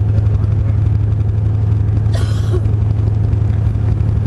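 Semi truck running at a steady drone, with a brief hiss lasting about half a second near the middle.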